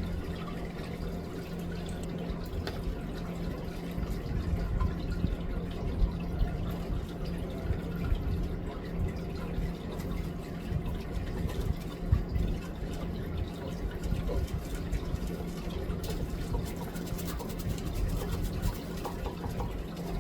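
Steady trickling water over a low steady hum and rumble.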